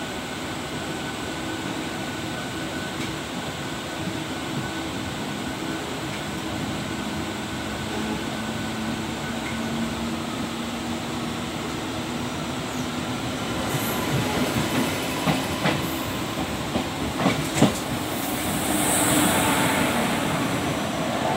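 Goods train wagons rolling past close by on the next track, heard from a moving local train: a steady rumble of wheels on rail. About two thirds of the way through come a run of sharp clacks over rail joints, then a brighter hiss near the end.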